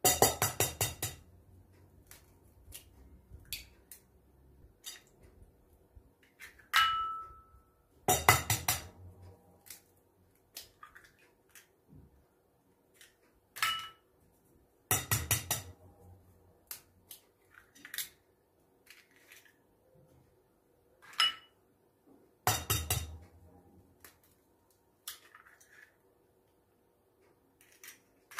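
Dishes and metal utensils clattering and clinking in a kitchen: four short bursts of rapid rattling about seven seconds apart, with single ringing clinks and light taps in between.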